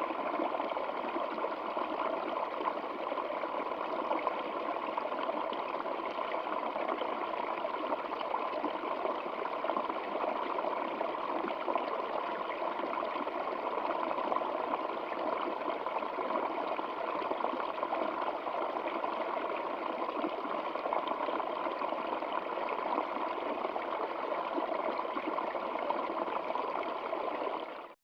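Flowing stream water, a steady even rush and trickle that cuts off suddenly near the end.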